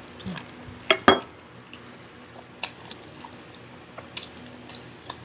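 Wet eating sounds: chewing and lip smacks, with two louder sharp smacks about a second in and scattered faint clicks after.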